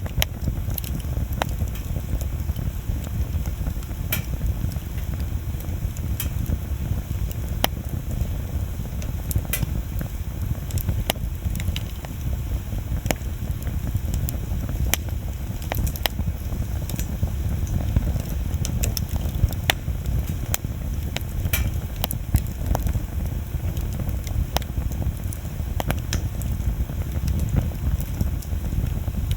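Wood bonfire burning, with irregular sharp crackles and pops of the burning wood over a steady low rumble.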